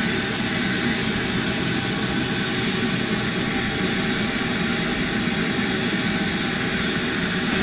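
Shop vacuum running steadily, its motor giving a loud, even rushing noise.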